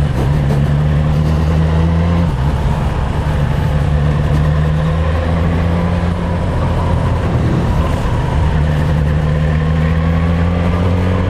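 Suzuki GSX-S 1000 inline-four engine running at steady revs, with a small step in engine note about two seconds in.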